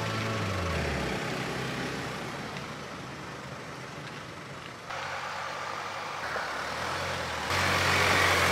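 Jeep Wrangler JK two-door's engine pulling away and fading as it drives off. After a sudden change about five seconds in, the Jeep's engine and tyres come up louder as it drives past near the end.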